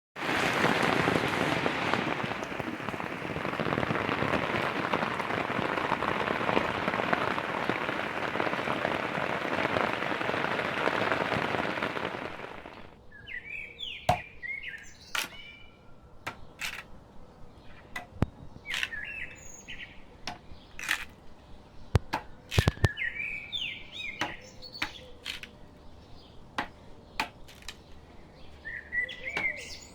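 Heavy rain pouring, a loud, even hiss that cuts off abruptly after about twelve seconds. After that, birds chirp every few seconds among scattered sharp clicks.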